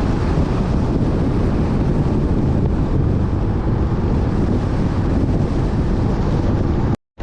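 Wind rushing over the microphone of a moving motorbike, a steady, loud rumble with the ride's engine and road noise mixed in.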